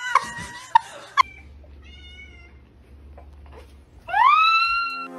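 A cat gives one long, loud meow about four seconds in, rising in pitch and then held. Earlier there are a few sharp knocks and rustling, and a short faint call near two seconds.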